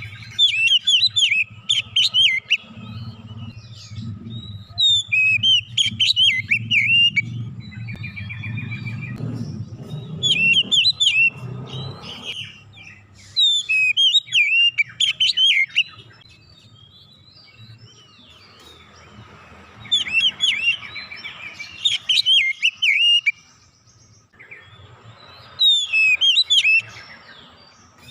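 An oriental magpie-robin (kacer) singing in repeated bursts of rapid, varied chirping and whistled phrases, each burst lasting a second or two with short pauses between. A low hum sits underneath in the first half.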